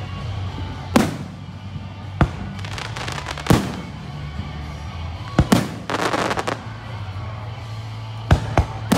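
Fireworks display: aerial shells bursting in sharp bangs every second or two, with dense crackling after the bursts around the middle and three quick bangs close together near the end.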